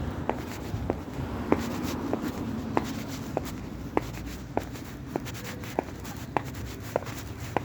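Short, sharp ticks repeating very evenly, about one every 0.6 seconds, over a steady low rumble.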